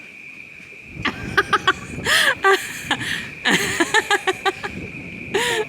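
Short runs of high-pitched laughter and squeals, loudest about two seconds in and again near the end, over a steady high chirring of insects.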